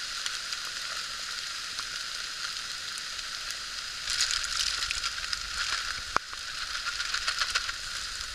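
Wood campfire hissing and crackling under a cooking pot, the hiss swelling about four seconds in, with one sharp pop a little after that.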